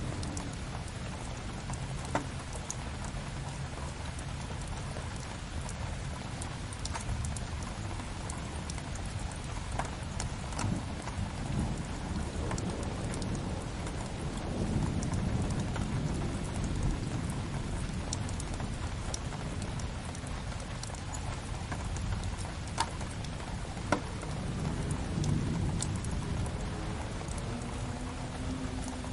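Steady rain on a window mixed with a crackling wood fire: continuous rain hiss over a low rumble that swells now and then, with scattered sharp pops from the fire, two of them louder.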